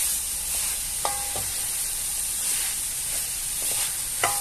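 Minced beef, sausage and chopped onion sizzling steadily in a pan as the onion sautés, stirred with a wooden spoon. The spoon knocks the pan about a second in and twice near the end, each knock leaving a short metallic ring.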